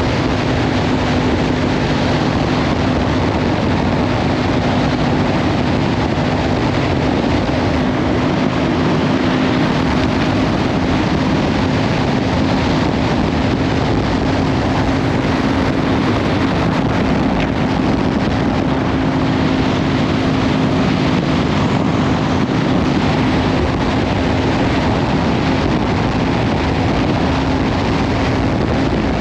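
Kawasaki Ninja 500 parallel-twin with a Leovince slip-on exhaust cruising at a steady engine speed, heavily masked by wind noise on the action camera's microphone.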